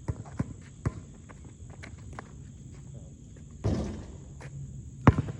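Scattered footsteps and sharp thuds on a hard court, the loudest about five seconds in, over a steady high insect buzz.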